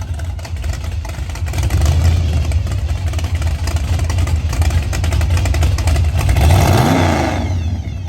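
A loud car engine running with a deep, low exhaust rumble. It revs briefly about seven seconds in, then begins to fade near the end as the car pulls away.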